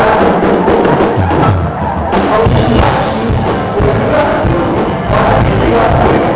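Live band music played loud, with steady percussion strokes, and a crowd underneath.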